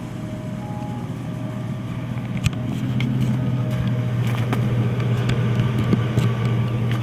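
Supercharged V8 of a Chevrolet Avalanche Z71 running with a steady low hum, getting a little louder about three seconds in, with a few sharp clicks over it.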